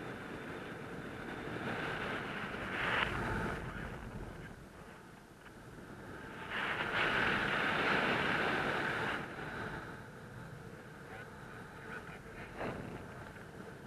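Airflow rushing over the microphone during a paraglider flight. It swells briefly about three seconds in and again, more strongly, for a couple of seconds mid-way.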